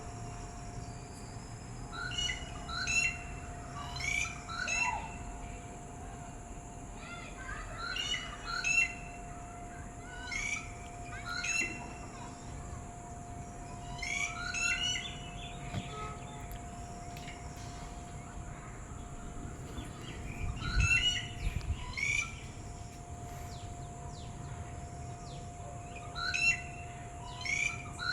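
Red-whiskered bulbul singing: short phrases of a few quick, bright whistled notes, repeated about every three to six seconds with pauses between.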